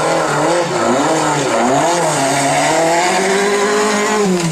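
Rally car engine revving hard, its pitch dropping and climbing several times and rising steadily in the second half.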